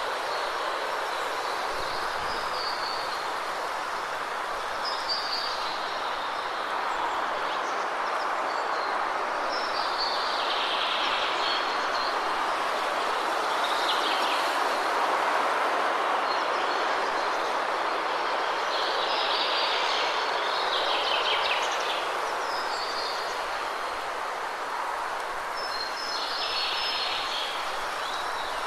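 Steady rushing of a waterfall, with birds chirping in short bursts every few seconds over the top.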